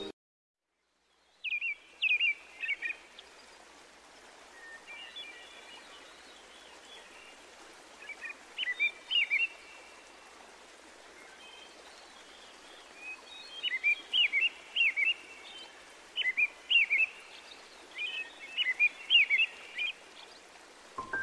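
A bird singing short, quick chirping phrases in groups with pauses between them, over a steady soft hiss. The song starts about a second in, after a moment of silence.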